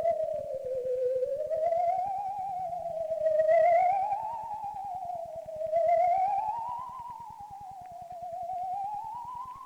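Eerie theremin-style electronic tone with a wide, fast vibrato, sliding slowly up and down in pitch in long swoops, a ghostly Halloween sound effect.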